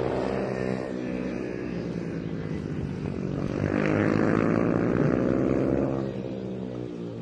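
Several 110cc mini GP racing motorcycles going past, with engine pitches rising and falling as the riders work the throttle. The loudest pass comes about halfway through, then the engines fade.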